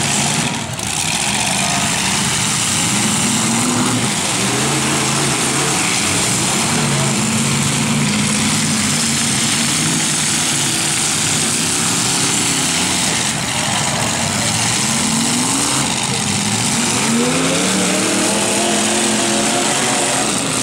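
Engines of several demolition-derby trucks running hard and revving, their pitch repeatedly rising and falling over a loud, steady wash of noise.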